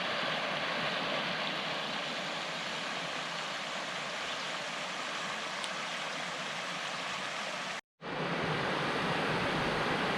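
Steady rush of creek water flowing, with a brief drop to silence about eight seconds in.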